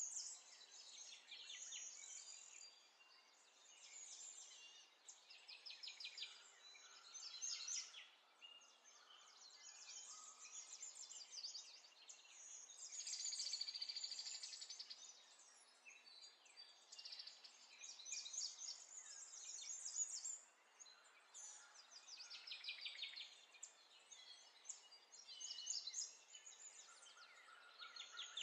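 Faint birdsong: several birds chirping and trilling in quick repeated runs.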